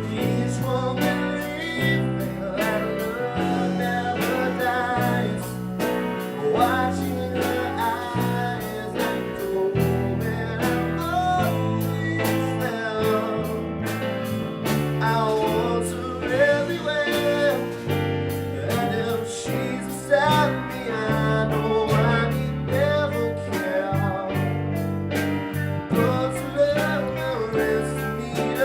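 A live rock band playing: electric guitar over bass and drums, with a sung vocal line.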